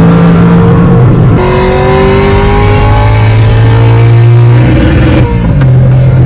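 Simulated high-performance engine sound played through a car's speakers by a plug-in engine-sound device, pulling up steadily in pitch through a gear for about three seconds, then dropping back and settling at a lower note near the end.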